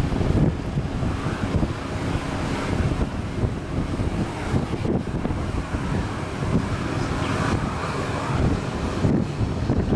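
Boeing 737 jet engines on arrival, a steady rushing noise, with wind buffeting the microphone.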